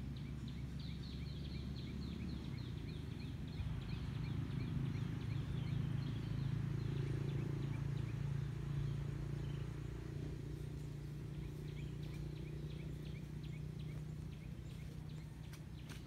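A bird's rapid chirping, about five short notes a second, for the first several seconds and again in the last few, over a steady low hum.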